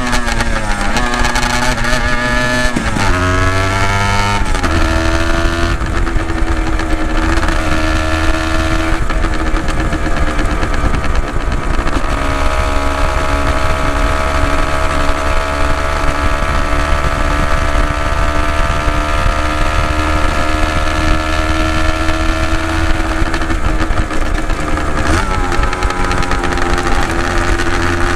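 Honda NSR250R (MC21) two-stroke V-twin exhaust through Dog Fight Racing expansion chambers: the engine note climbs twice in the first few seconds, dropping between climbs, then settles into a steady, slowly wavering running note.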